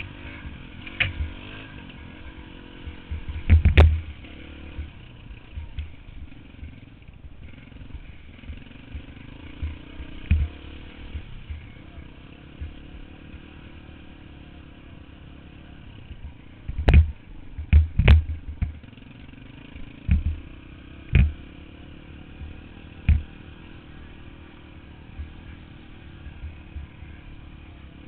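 Dirt bike engine running at a fairly steady pitch, with sharp knocks over it: one a few seconds in and a cluster of them past the middle.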